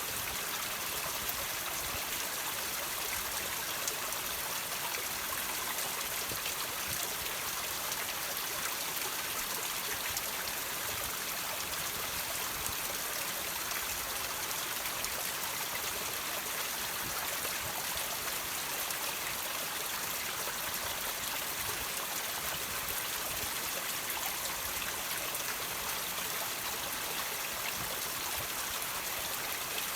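Water trickling and dripping off rocks: a steady, even splashing made up of many small drops, with no single drop standing out.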